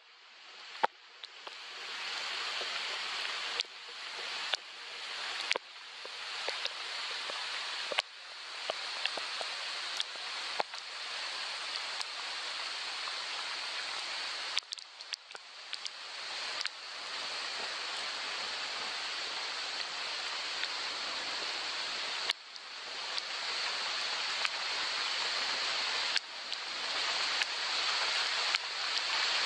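Steady hiss of soft rain, with scattered sharp clicks of drops striking. The sound briefly dips about halfway through, and its level steps up suddenly about 22 seconds in.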